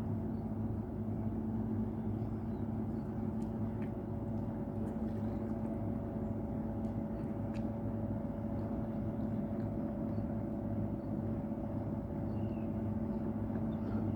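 Steady low drone of a ship's engines: a constant hum with a few unchanging low tones and no breaks.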